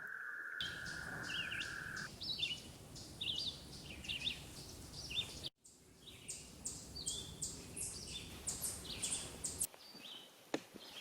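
An American toad's long, steady, even-pitched trill, which stops about two seconds in, with birds chirping repeatedly throughout and a brief cut about halfway.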